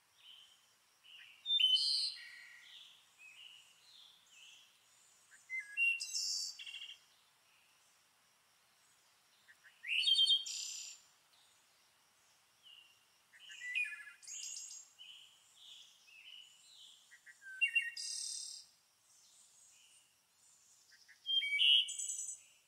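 Songbird singing outdoors: short phrases of quick, high, sweeping notes, each about a second long, repeated about every four seconds, with fainter chirps from other birds between.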